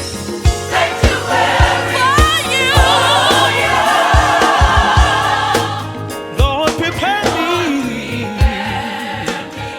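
Gospel worship music: voices singing with vibrato and sliding runs over a band with a steady kick drum.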